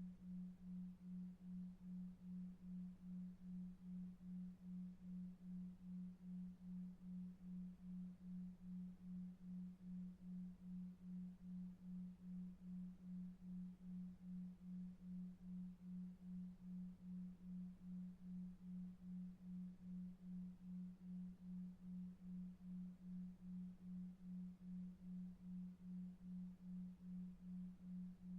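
A faint, low, pure tone that pulses evenly about two and a half times a second: a 2.5 Hz 'delta wave' pulsing sleep tone, over a very faint low noise bed.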